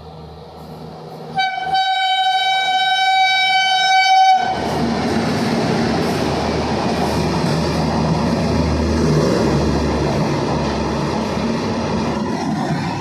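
WAP-7 electric locomotive horn sounding one steady blast about three seconds long, starting a little over a second in; as it stops, the locomotive and its coaches pass at speed with a loud rolling rumble and wheel clatter.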